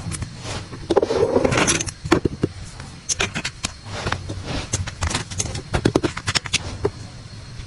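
Items being handled while restocking: a run of sharp clicks, taps and clacks as things are picked up and set down, with a burst of rustling about a second in.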